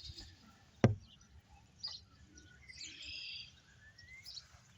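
Birds chirping against quiet outdoor background noise, with one sharp knock about a second in.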